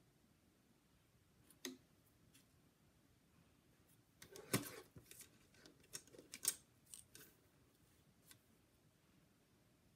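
Corners of a card-stock panel being cut, heard as a few separate sharp snips and clicks, with one cluster about halfway through.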